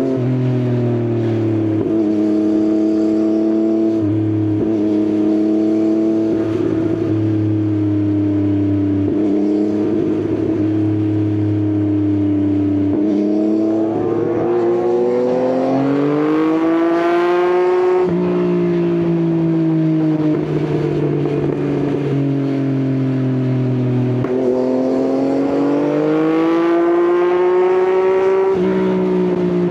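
Yamaha XSR900's inline three-cylinder engine through an Akrapovič exhaust under way. It runs steadily at first, then revs up under acceleration with an abrupt drop in pitch at a gear change about halfway through, eases off, and revs up again before another drop near the end.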